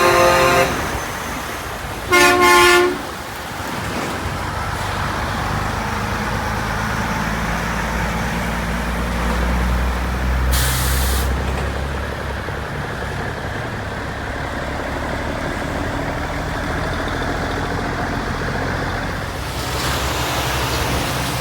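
Semi-truck air horns blast twice in the first few seconds over the steady low rumble of diesel big rigs rolling at parade speed. About halfway through there is a short air-brake hiss.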